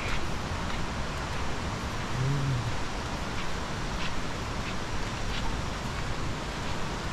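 Steady rushing water noise, without a break. About two seconds in, a brief low call sounds over it, and a few faint ticks follow.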